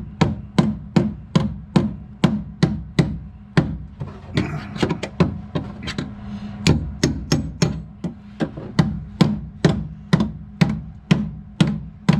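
Hand hammer striking a sheet-steel car floor patch panel in quick, even blows, about two and a half a second, beating the patch flat and flush with the floor. A steady low hum runs underneath.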